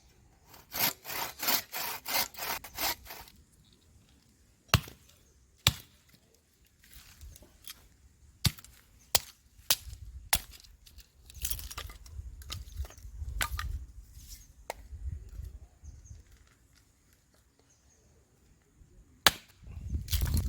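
Wood being worked by hand for a campfire: a quick run of about eight rasping strokes at roughly three a second, then single sharp cracks of wood breaking, spaced out over the rest, with one last loud crack near the end.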